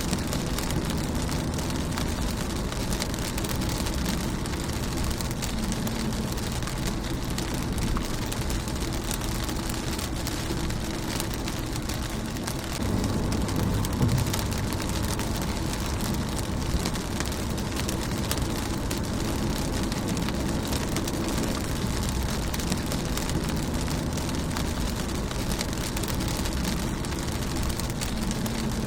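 Rain pattering steadily on a car's windshield, with many individual drops ticking over an even hiss. A brief low rumble swells about halfway through.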